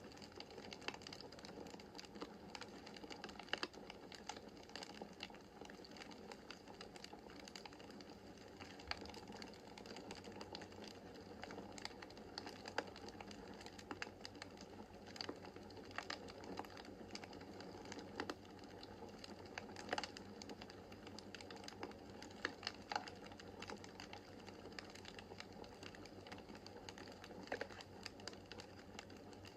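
Wood fire in a fireplace crackling: irregular sharp pops and snaps over a steady hiss of burning logs.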